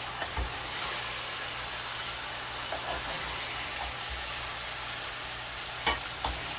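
Bananas frying in hot oil: a steady sizzle, with two sharp clicks near the end.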